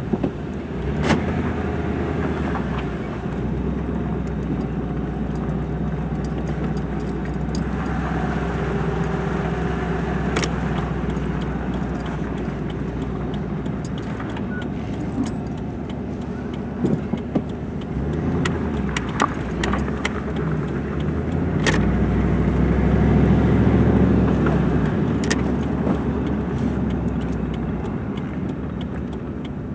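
Truck engine, fitted with a K&N cold air intake, running steadily under way as it drives off, heard from inside the cab; the engine note swells louder under acceleration about two-thirds of the way through. A few sharp clicks and rattles sound over it.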